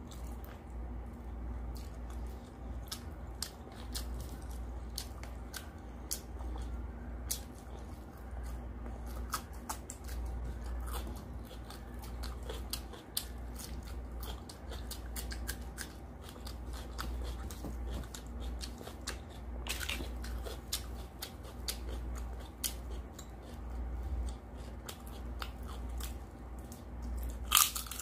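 Close-up chewing and mouth sounds of someone eating rice and mutton curry by hand: a steady stream of small wet clicks and smacks over a low steady hum, with a louder crunchy bite near the end.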